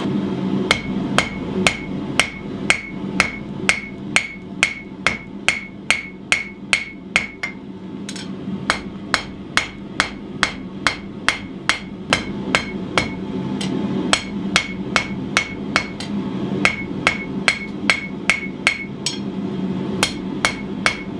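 Hand hammer striking hot steel on an anvil's horn while forging a knife guard: an even rhythm of about two to three blows a second, each with a short bright ring, in runs broken by brief pauses. A steady low hum runs underneath.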